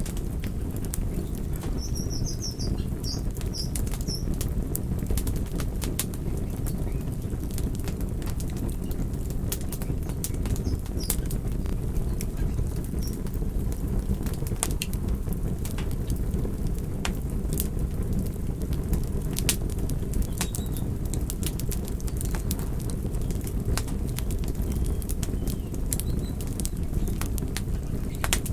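Wood campfire burning: a steady low rumble of flames with frequent sharp, irregular crackles and pops from the burning wood.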